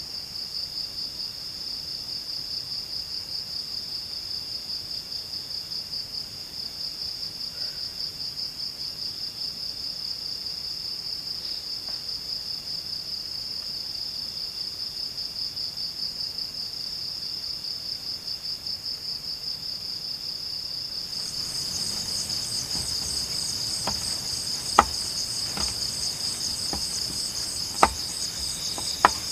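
Insects chirring steadily in the forest, a fast-pulsing high trill; about two-thirds of the way through a second, higher trill joins in. A few sharp clicks or knocks sound near the end.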